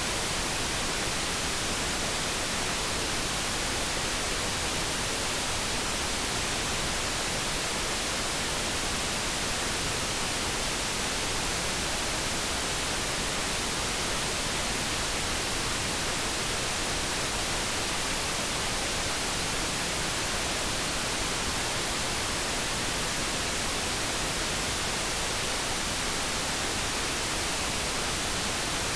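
Steady synthetic noise from a light brown-noise focus track: an even, unchanging hiss with no tones or events.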